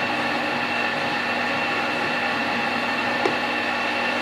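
Power saw running steadily as it cuts off a piece of bronze stock: a very loud, even machine noise with a steady high whine.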